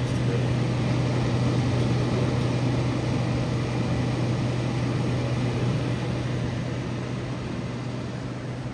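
Steady electric hum with an even rushing of moving air, from a running fan-type appliance, fading slightly near the end.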